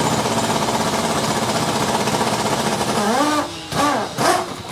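A loud, steady, rapid mechanical rattle, like a hammering power tool in a car workshop, cutting off about three and a half seconds in. Short voice-like sounds follow near the end.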